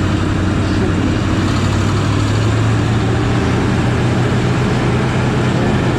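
Honda Silver Wing maxi-scooter's engine running at low speed, a steady hum whose pitch rises a little about two seconds in.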